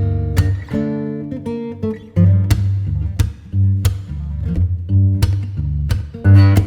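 Background music: acoustic guitar playing a run of plucked and strummed notes over a bass line.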